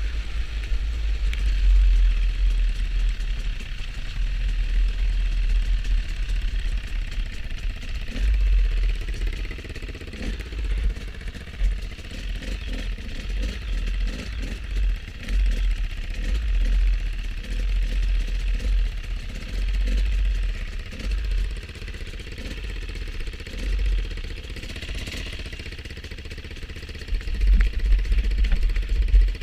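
Motorcycle under way: a steady engine and road noise, with heavy, uneven wind buffeting on the microphone.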